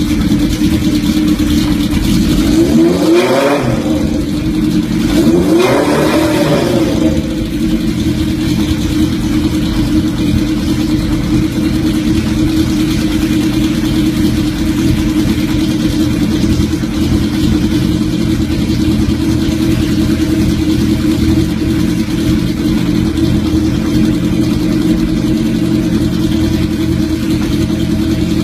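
Motorcycle engine idling steadily, revved up and back down twice, about three and six seconds in.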